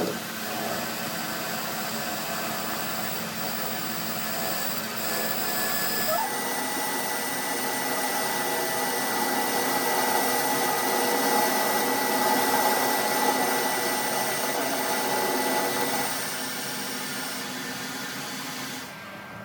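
An electric power tool running steadily with a high whine, its sound shifting about six seconds in and tailing off near the end.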